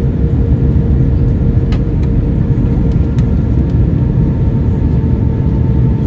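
Steady, loud low rush of cabin noise inside an Airbus A320-232 in flight: airflow over the fuselage mixed with the hum of its IAE V2500 engines, with a faint steady whine on top.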